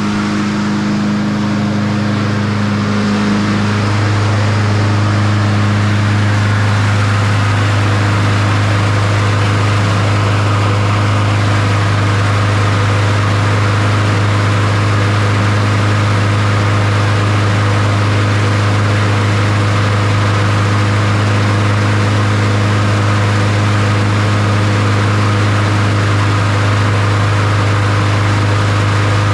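Honda HRR216 push mower's single-cylinder engine running steadily, a little louder from about four seconds in. It is running rich, black smoke still coming from the muffler, which the mechanic puts down to the choke not opening.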